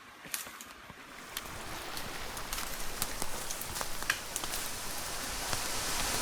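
Twigs and leaf litter snapping and crackling underfoot while walking through brush, over a rush of running water that grows steadily louder.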